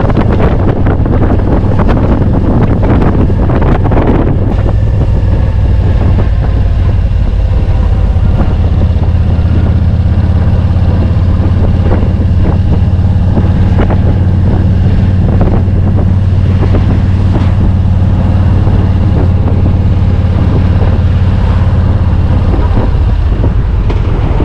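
Yamaha motorcycle engine running at a steady cruise, a constant low drone, with wind rushing over the microphone. The wind is heaviest in the first few seconds, and the drone eases near the end.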